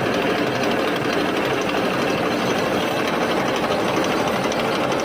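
Tractor engine running steadily at constant speed, a loud, even mechanical clatter.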